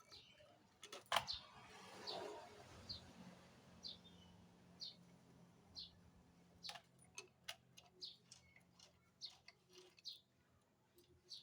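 Faint short, high bird chirps repeating about once a second, coming a little quicker toward the end, with a sharp click about a second in.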